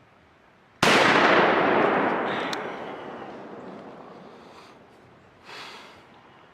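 Muzzleloader rifle fired once: a sudden loud shot whose echo rolls away over about three seconds. A shorter, softer sound follows about five seconds in.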